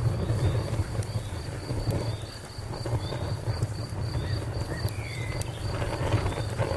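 Wood fire burning with a low, flickering rumble and a few sharp crackles and pops, while a cricket chirps in an even, high-pitched rhythm.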